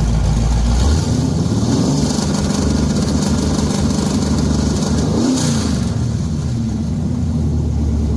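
Car engine running loud with a deep, steady rumble, its pitch stepping up about two seconds in, then a short rev that rises and falls about five seconds in.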